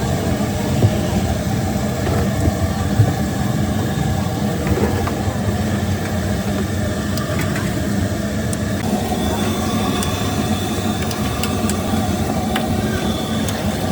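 Steady rumble of road traffic and engines, with a few light clicks in the second half.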